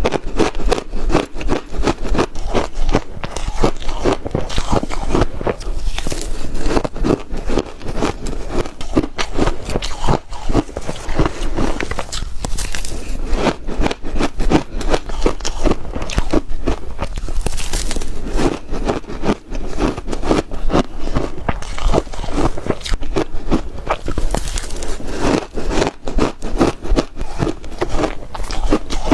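Ice being bitten and chewed close to the microphone: a dense, unbroken run of crunches and crackles, with crisper bites every few seconds.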